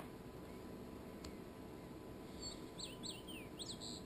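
A bird chirping: a quick run of short, high chirps sweeping up and down, starting about two seconds in, over faint room hiss.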